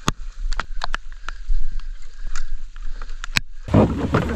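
Light rain pattering, with scattered sharp taps and knocks. About three and a half seconds in, the sound switches suddenly to a much louder rush of noise.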